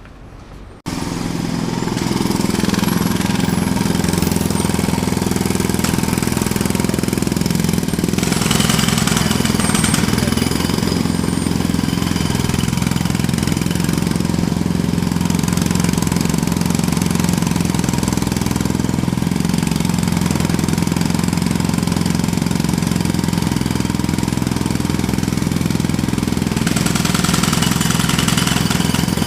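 Jackhammer starting abruptly about a second in, then hammering steadily and loudly without a break.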